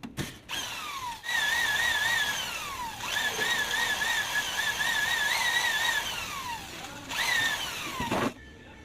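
Electric drill running in about four bursts, its motor whine wobbling slightly in pitch while it runs and falling away each time the trigger is let go.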